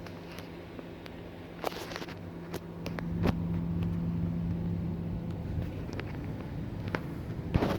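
A few sharp clicks and knocks of tools working in the engine bay, over a steady low hum that grows louder in the middle and fades out after about five seconds.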